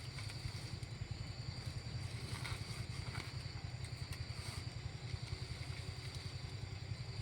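Small engine running steadily at an even speed, with a fast low pulsing and a steady high whine above it.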